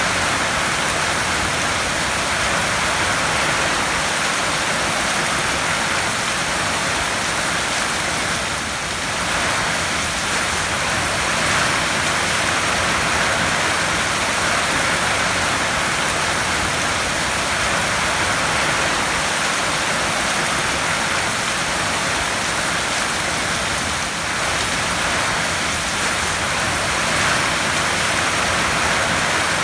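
Heavy rain falling on a tin roof: a steady, dense hiss of drops with no rhythm, easing slightly twice.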